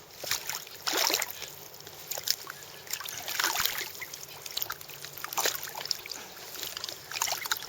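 Irregular small splashes and sloshing of river water, in short uneven bursts.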